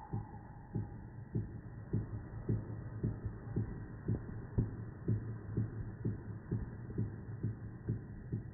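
White-backed woodpecker pecking at wood: steady single knocks, about two a second, quickening slightly towards the end.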